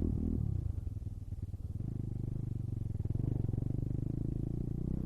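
Pit bike's small single-cylinder engine running under the rider, muffled, easing off about a second in and then pulling again steadily.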